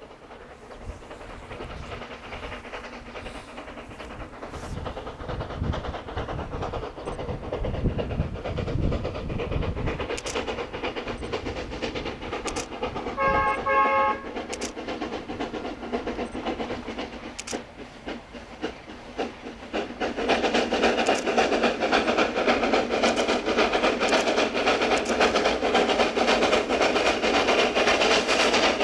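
C2 narrow-gauge steam locomotive running with its train, getting louder as it nears. It gives one short multi-tone whistle blast about 13 seconds in and is loudest from about two-thirds of the way through.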